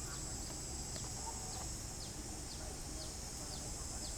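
Outdoor animal ambience: a steady high-pitched insect drone, with short falling chirps repeating about twice a second.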